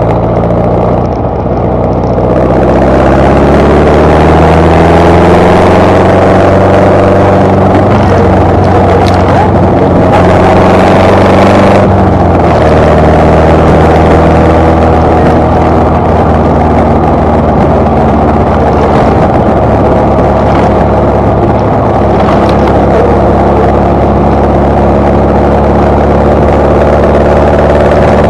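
Birkin 7 (Super Seven) engine heard from its open cockpit while driving. The engine note rises steadily as the car accelerates, drops in pitch about twelve seconds in, and then holds a steady note at cruising speed.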